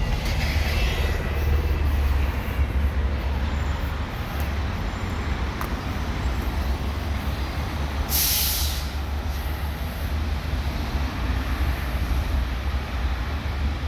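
WashTec SoftCare Pro Classic rollover car wash machinery running with a steady low rumble, and a short loud hiss about eight seconds in that lasts about a second and a half.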